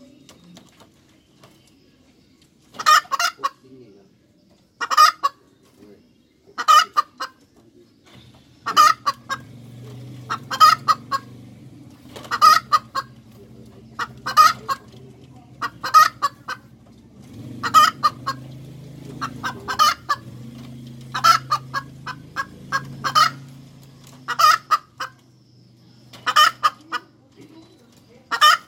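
Domestic hen cackling: loud, sharp clucking calls repeated about every two seconds, starting about three seconds in. A low steady hum runs underneath through the middle stretch.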